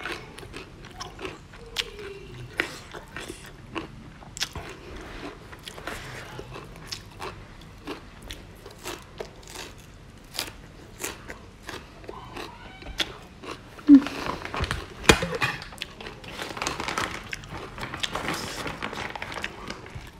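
Close-up eating sounds: crunchy food being bitten and chewed, with many sharp crunches. Near the end a louder stretch of rustling, like a plastic bag being handled.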